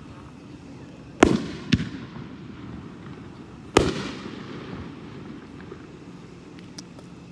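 Red Rhino Atomizer 9-shot fireworks cake firing its last shots. There are three loud booms, each with a long echoing tail: two about half a second apart just over a second in, then a third a couple of seconds later.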